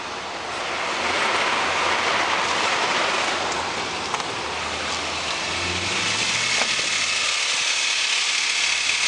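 Toyota 1GR-FE 4.0-litre V6 engine running just after being started, heard close up under the open bonnet; it grows louder about a second in and then runs steadily, sounding healthy enough for the dismantler to call it a very good engine.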